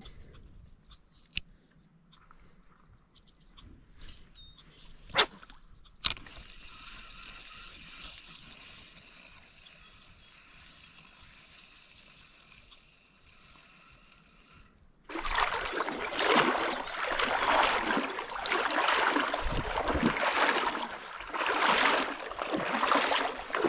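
Insects chirring steadily in the background with a few sharp clicks, then about two-thirds of the way in, loud water splashing and sloshing in irregular surges.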